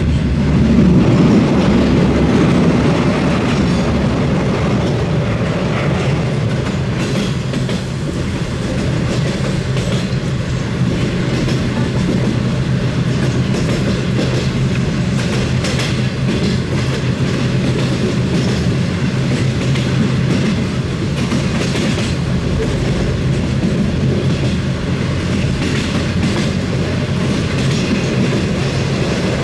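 Diesel-hauled San Martín line passenger train running along the track: a steady loud rumble with clickety-clack of the wheels over rail joints.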